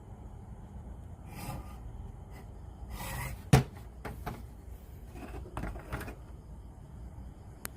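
A series of clicks and knocks from handling a radio cassette player during repair, the loudest a sharp click about three and a half seconds in, over a steady low hum.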